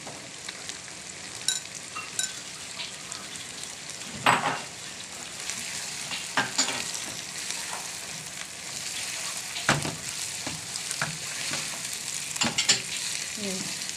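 Sliced onions and chicken pieces sizzling steadily in hot ghee in a wok while being stirred and turned with a silicone spatula, with a few louder stirring strokes now and then.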